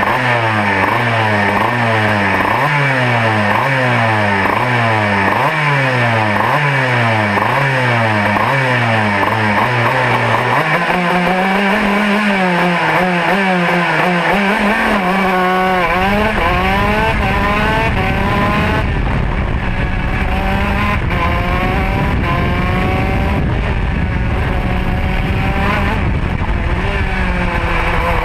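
Two-stroke kart engine heard onboard while lapping. For the first ten seconds its revs rise and fall about once a second through a run of corners. Then it climbs and holds high and fairly steady, with a heavy low rumble of wind and vibration. Near the end the revs dip and pick up again.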